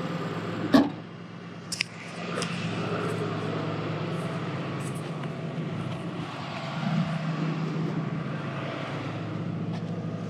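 A car hood slams shut with one loud thump a little under a second in, followed by a couple of light clicks, while the 2016 Ford Fiesta's engine keeps idling steadily.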